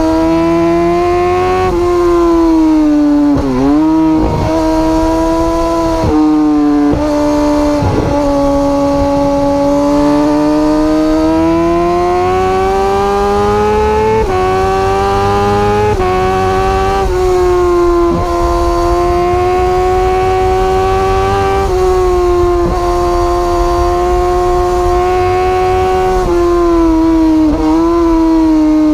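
Sport motorcycle engine held at high revs, heard from on board the bike. Its pitch drifts up and down with the throttle, with a few quick dips and jumps where gears change.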